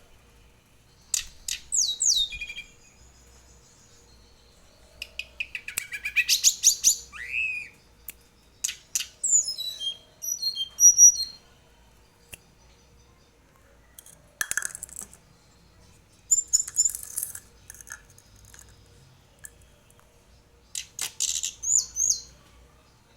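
Juvenile tledekan gunung songbird practising its song in short, broken bursts of high whistles, chirps and quick sliding notes, separated by pauses of a second or more. It has not yet reached a continuous rolling song.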